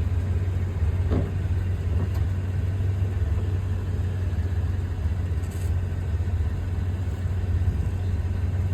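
Steady low rumble of wind buffeting the microphone on a windy day, with a faint tick about a second in.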